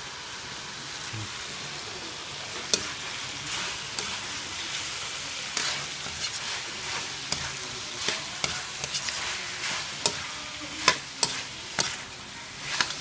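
Chicken pieces frying in a wok with curry powder, a steady sizzle throughout. From about three seconds in, a metal ladle stirs them, scraping and clicking against the pan, with the loudest knocks near the end.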